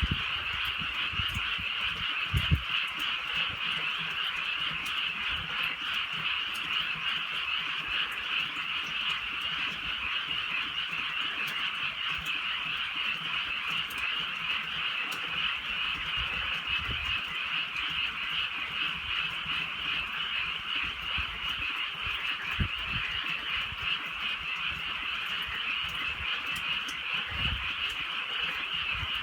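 A dense chorus of many frogs calling on and on without a break, over faint pattering of light drizzle. A couple of soft low thumps stand out, about two seconds in and again after twenty seconds.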